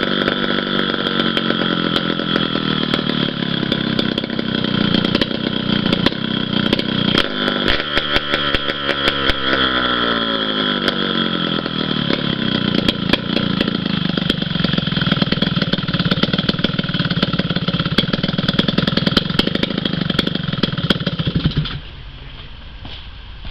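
Kawasaki KDX200 two-stroke single-cylinder engine running, its pitch rising and falling as it is revved, then cutting off shortly before the end.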